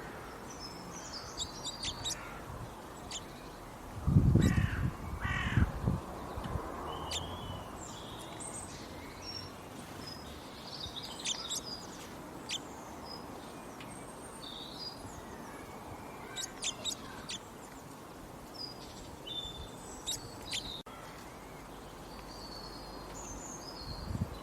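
Birds chirping and calling: many short, high chirps and trills over a steady hiss of outdoor background noise, with a few louder, lower calls about four to six seconds in.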